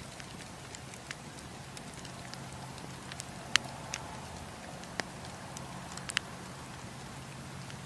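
Campfire burning: a steady hiss of flames with burning wood cracking in a few sharp, irregular pops, the loudest about three and a half seconds in.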